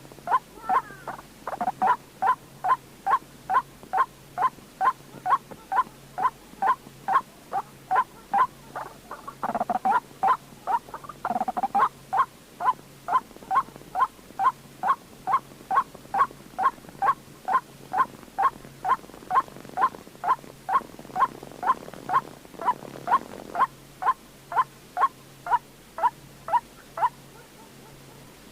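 White-breasted waterhen calling: a long, even series of short, clipped notes, each falling slightly in pitch, about two a second, with a few harsher overlapping calls around ten and twelve seconds in.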